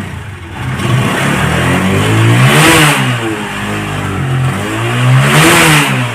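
TVS Apache RTR 160 single-cylinder motorcycle engine running and being revved twice. Each rev climbs and drops back, the first peaking a little before halfway through and the second near the end. The engine is being started and run after sitting unused for many days, with its spark plug newly replaced.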